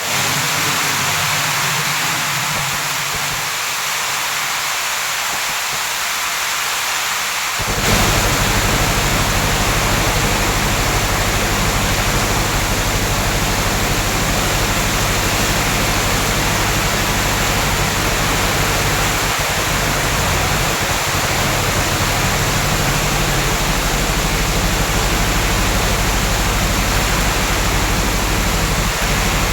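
Heavy rain falling steadily. About eight seconds in, a low, steady rumble suddenly joins it and continues.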